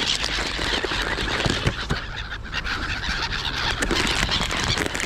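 A flock of wild birds calling over one another in a dense, continuous mix of calls.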